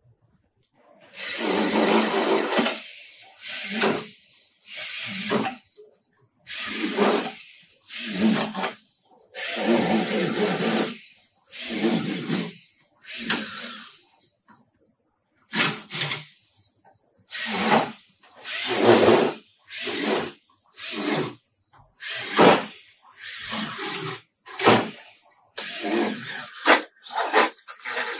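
Handheld power tool run in repeated bursts of a second or two each, switched on and off over and over. The bursts grow shorter and come faster near the end.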